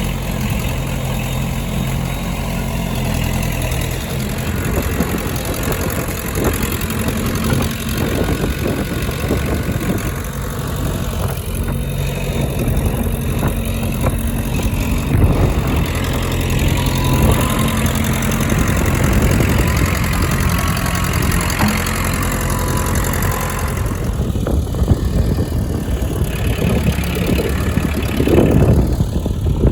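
Loader engine running steadily, its pitch shifting now and then as it works, with a few sharp clanks along the way.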